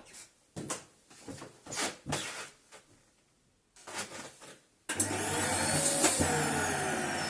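Plastic clicks and knocks of the Bosch Clean'n Serie 2 BGC05A220A bagless vacuum cleaner being handled. About five seconds in, its 700 W motor switches on with a sudden loud rush of air. Its whine rises, then glides down after a click a second later.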